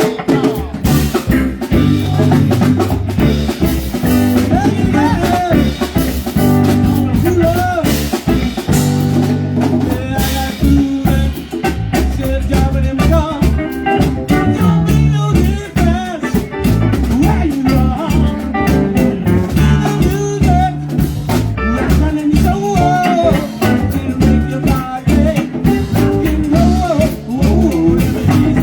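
Live band playing a song: drum kit, bass and guitar, with a singing voice over them.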